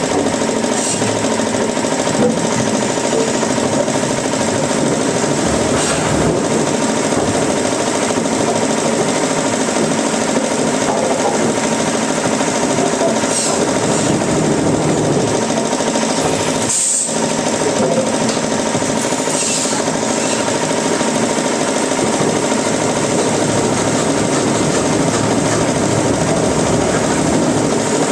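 Woodworking or sawmill machinery running steadily with a dense mechanical rattle and a constant hum, briefly dropping out once just past the middle.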